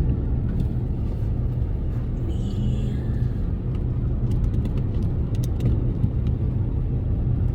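Car driving along, with a steady low rumble of road and engine noise heard from inside the cabin.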